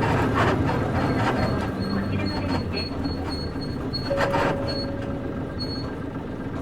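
Cabin running sound of a Nissan Diesel KC-UA460LSN bus with its PG6 diesel engine; the engine note fades in the first couple of seconds as it eases off. Throughout there are creaks and rattles from the body and leaf-spring suspension, with a thin high whine coming and going.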